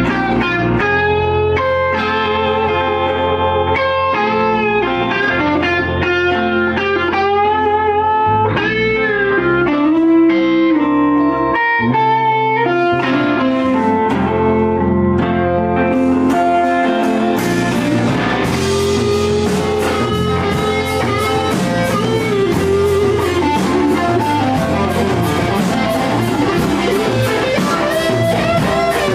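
Blues-rock band playing an instrumental break: an electric guitar plays a lead line of single notes, many of them bent, over a steady bass. About two-thirds of the way through, a fast, even cymbal beat comes in and the whole band plays fuller.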